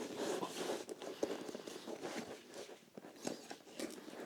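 Irregular small crackles, scrapes and ticks as a glued shoe part is pried and peeled away by hand; the part is cardboard rather than leather, and it comes off easily.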